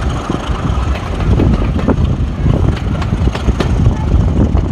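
Train running on the rails: a steady low rumble with irregular clicks and knocks.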